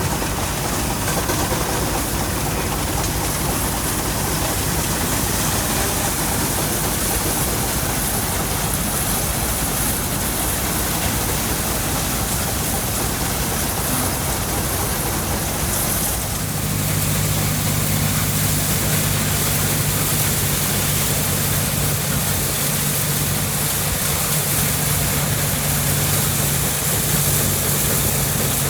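Threshing machinery running steadily, a dense even mechanical noise. About sixteen seconds in the sound changes suddenly and a steady low engine hum comes in.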